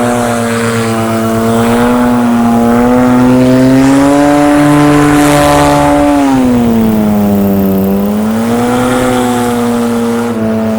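Paramotor's two-stroke engine and propeller running steadily in flight. The engine note rises slightly from about two seconds in, drops back lower near eight seconds, then settles again.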